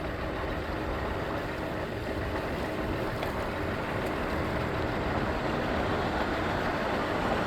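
Bird electric scooter running along a road with a steady rumble mixed with road noise, growing slightly louder. The rumble is unusual for these scooters, like a diesel truck, and the rider takes it as a sign the scooter has an issue.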